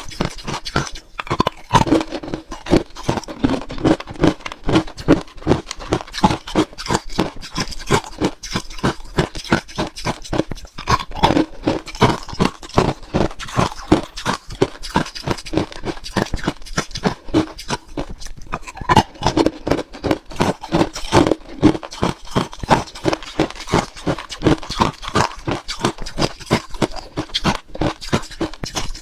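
A person chewing frozen matcha ice, with rapid, continuous crunching and wet mouth sounds.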